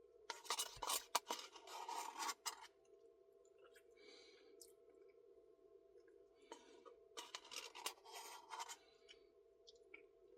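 Spoon scraping and clicking inside a Dairy Queen Blizzard cup in two bursts of about two seconds each, the first starting just after the beginning and the second about seven seconds in, over a faint steady hum.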